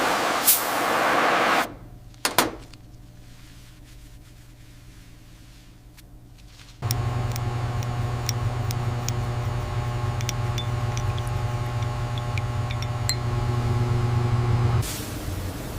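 Water from a tap runs and stops; then, after a click, a small electric appliance hums steadily for about eight seconds with faint ticks before cutting off.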